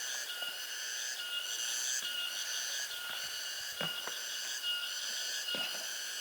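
Forest ambience: a steady chorus of high-pitched, pulsing wildlife calls, with a few faint knocks.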